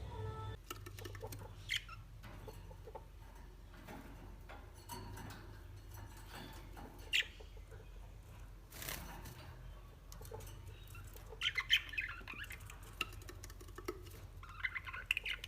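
Parrots chirping and squawking in short, scattered calls, busiest near the end, with small clicks and taps between them.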